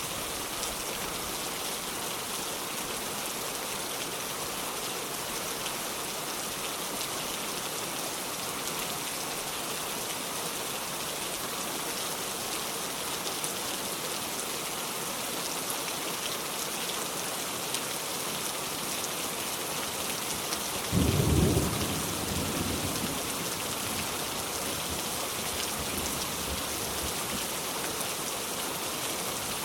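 Heavy rain falling steadily on a metal roof, a dense even hiss. About two-thirds of the way through, a sudden loud thunderclap breaks in and rumbles away over a couple of seconds.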